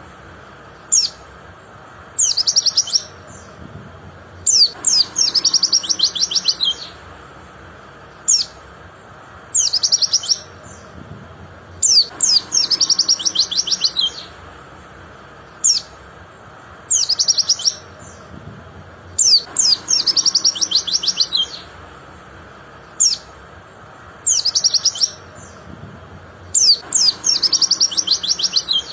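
White-eye (pleci) singing: bursts of rapid high chattering trills, one to two seconds long, alternating with single sharp chirps every couple of seconds. The same sequence of phrases recurs about every seven seconds, like a looped recording.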